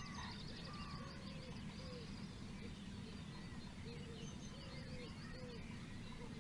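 Several birds calling and chirping, many short notes at different pitches overlapping, over a steady low background rumble.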